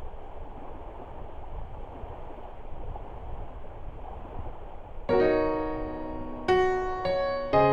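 A steady low hiss of outdoor background noise, then about five seconds in a piano starts playing chords, four strikes in under three seconds, opening a song.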